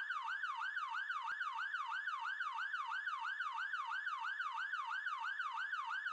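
Electronic siren in a fast yelp, its pitch sweeping up and down about three times a second, steady until it stops right at the end.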